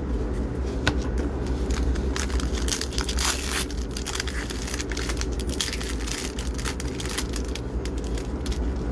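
Crinkling and tearing of a trading-card pack wrapper, with scattered clicks of cards being handled and a denser stretch of rustling about three seconds in. A steady low hum runs underneath.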